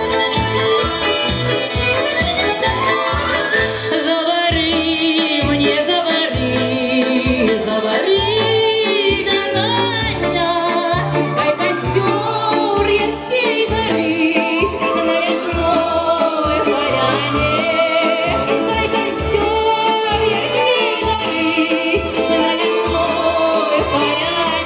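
Folk music ensemble playing live, a continuous instrumental passage with a steady, beating bass line, shaken percussion and wavering melody lines.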